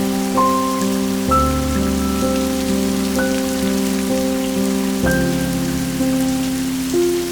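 Steady rain hiss under soft, slow background music: single melodic notes every half second or so over held low chords that change about a second in and again about five seconds in.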